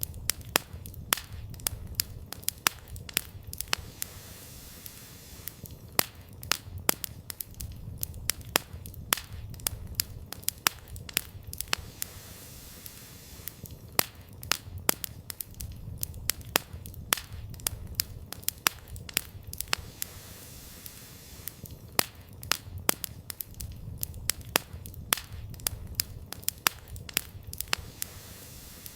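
Wood campfire burning: firewood crackling with frequent sharp pops, several a second, over a low steady rumble of flames.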